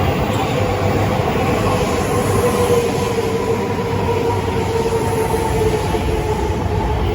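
Shinkansen bullet train running: a steady rumble and rushing hiss, with a whine that drifts slightly lower in pitch.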